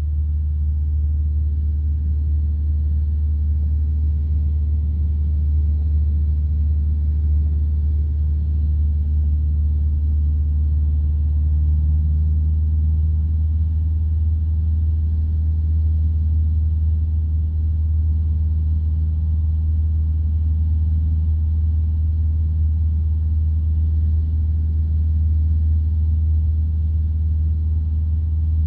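Light piston-engine aircraft's engine and propeller droning steadily in the cockpit in cruise, a deep, even hum with no change in power.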